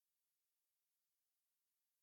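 Silence: the sound track is effectively empty, with only a faint, even hiss.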